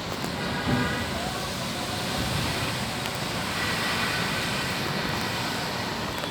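Steady traffic noise on a rain-soaked highway: rain hiss and tyres on wet road mixed with passing vehicle engines, with faint higher tones coming through briefly twice.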